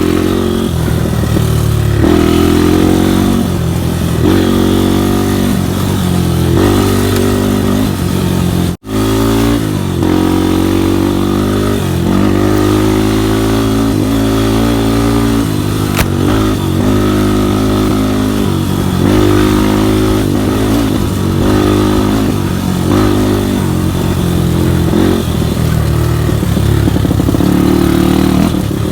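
Off-road trail motorcycle engine running hard, its pitch climbing and dropping again every second or two as the rider revs and shifts. The sound cuts out completely for an instant about nine seconds in.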